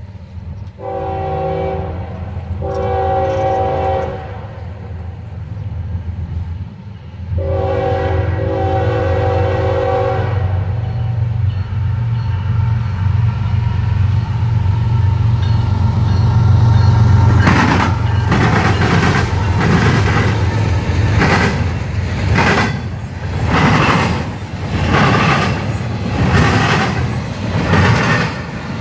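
A freight locomotive's multi-note air horn sounds three blasts, two shorter ones and then a longer one, the horn signal for a grade crossing. The diesel engine's rumble swells, and from about halfway through a double-stack container train rolls past with its wheels clicking and clattering on the rails.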